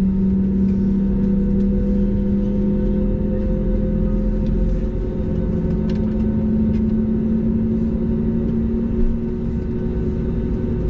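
Airbus A320neo cabin noise: a steady engine drone over a low rumble, its two main tones slowly rising a little in pitch.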